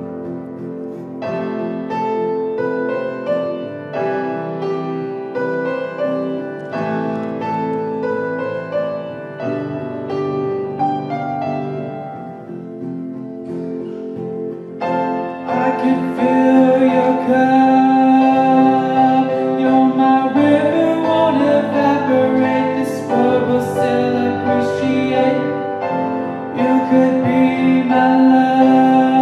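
A teenage boy singing a pop song with guitar accompaniment. The music grows fuller and louder about halfway through.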